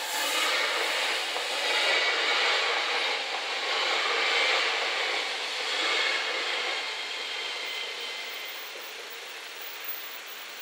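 SNCB Desiro electric multiple unit passing over a level crossing: the rush of wheels on rail is loudest for the first six seconds or so, then fades away as the train leaves.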